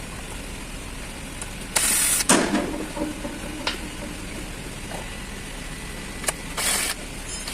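Two short hissing bursts, one about two seconds in and one near the end, with a metallic clank that rings briefly and a few light knocks of metal parts being handled during the transmission service.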